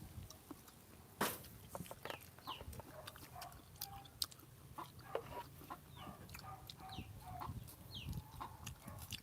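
Chickens clucking faintly, in short scattered calls, with a few sharp clicks; the loudest click comes about a second in.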